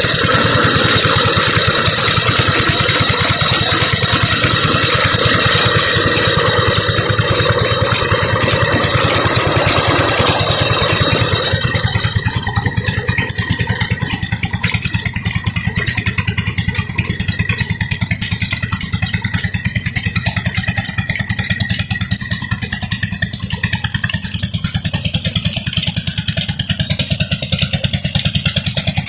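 16 HP diesel engine of a tube-well pump running steadily with a fast, even beat and a rattle. A brighter hiss over it dies away about twelve seconds in.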